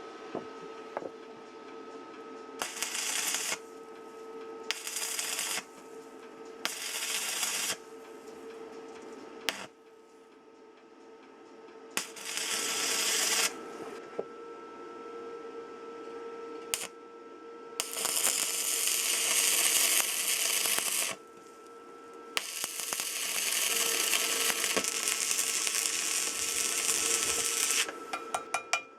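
Stick arc welding: the arc crackles and hisses in several separate runs, from about a second up to six seconds long, over a steady electrical hum. A quick run of sharp taps comes near the end.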